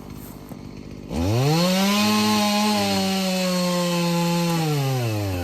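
Husqvarna 240 two-stroke chainsaw idling, then revved up about a second in and held at full throttle for about three and a half seconds while cutting into the tree, its pitch sagging slightly under load, before dropping back to idle near the end.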